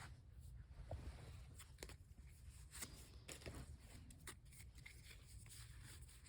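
Faint handling of Pokémon trading cards: a few soft clicks and rustles as cards are slid off the stack one after another, over quiet room tone.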